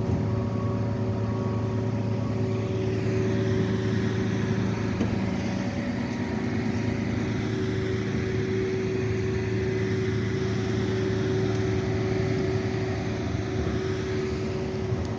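Vehicle engine idling, a steady low hum with no change in speed.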